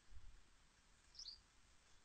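Near silence, with a brief low thump just after the start and a faint double bird chirp, high and quick, a little past one second in.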